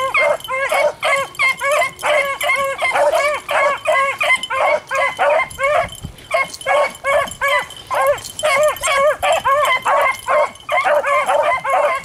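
A small pack of beagles baying as they run a rabbit's scent trail: many short, overlapping yelping calls one after another, with a brief lull about six seconds in.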